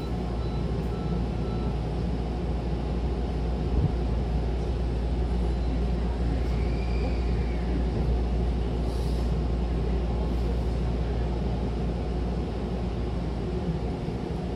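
Hankyu electric commuter train heard from inside the carriage: a steady low rumble of the running train. About seven seconds in, a faint whine rises and falls, and soon after there is a short hiss.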